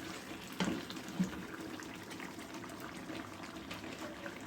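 Peanut-paste chicken curry simmering on the stove, a steady bubbling hiss, with two light knocks about half a second and a second in.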